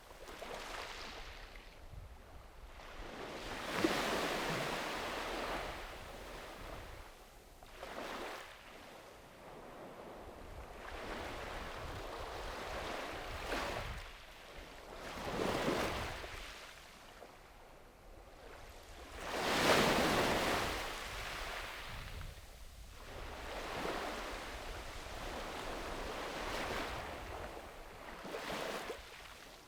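Small sea waves breaking and washing onto a sandy beach, the surf swelling and fading every few seconds, with the largest breaks about 4, 15 and 20 seconds in. A faint low rumble of wind on the microphone lies under it.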